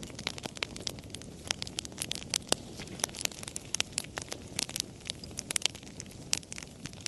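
Wood campfire crackling, with many irregular sharp pops and snaps several times a second over a low steady rumble from the flames.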